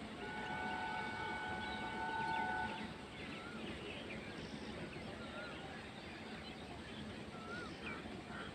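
MEMU electric train's horn sounding one steady multi-tone blast of about two and a half seconds near the start, with birds chirping around it.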